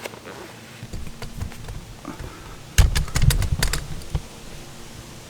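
Clicks and knocks of hands handling parts and tools on a motorcycle: a few light clicks, then a busy cluster of sharp clicks and dull knocks about three seconds in.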